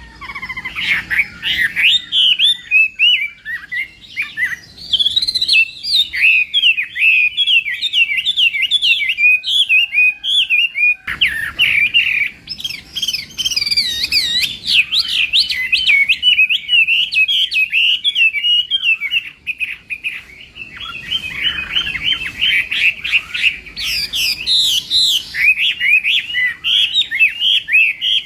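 Hwamei (Chinese melodious laughing thrush) singing a long, rapid, varied song of quick whistled notes that swoop up and down, loud and almost without a break.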